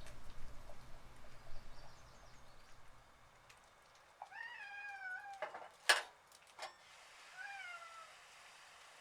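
A cat meowing twice: a long meow about four seconds in and a shorter one near the end. Between them comes a single sharp click, the loudest sound, followed by a fainter click.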